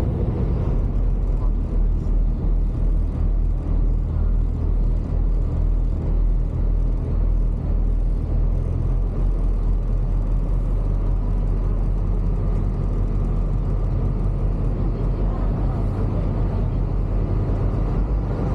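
A boat's engine running with a steady low rumble, heard from on board.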